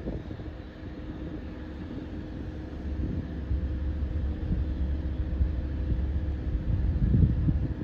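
Army UH-60 Black Hawk helicopter running with its twin turboshaft engines: a steady low rumble with a constant mid-pitched tone, the rumble growing heavier about three seconds in and staying so almost to the end.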